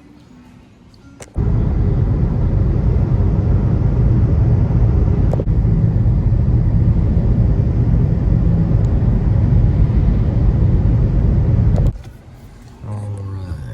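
Loud, steady low rumble of a car driving, road and wind noise heard from inside the car, starting abruptly about a second in and cutting off abruptly near the end.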